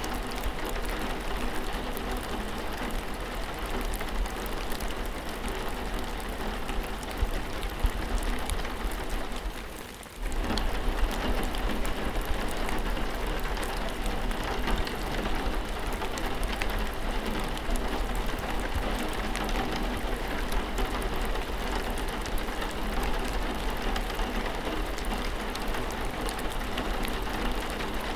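Steady rain, with dense, fine raindrop ticks over an even hiss. It briefly drops away about ten seconds in, then comes straight back.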